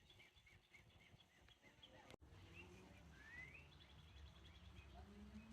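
Faint birdsong over a low outdoor background rumble: repeated short chirps, a rising whistled note about three seconds in, and a quick trill shortly after. The sound cuts out for an instant about two seconds in.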